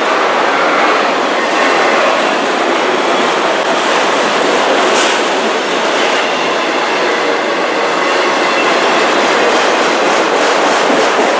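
Freight train cars of a CN autorack train rolling past with a steady loud noise of wheels on rail. Near the end, rhythmic clickety-clack from the wheels crossing rail joints becomes distinct.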